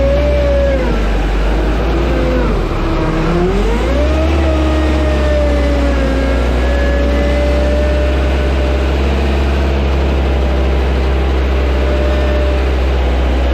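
Engine of an airport ground-handling vehicle running over a steady low rumble, its pitch dropping about two seconds in, rising sharply as it revs up, then holding steady.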